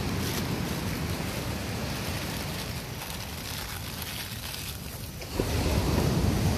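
Steady rushing of surf and wind, with wind buffeting the microphone. It eases off in the middle and swells sharply louder a little past five seconds in.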